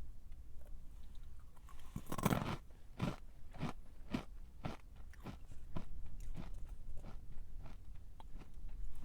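Close-up eating of a crunchy snack: one loud bite about two seconds in, then steady chewing with crisp crunches about twice a second that grow gradually fainter.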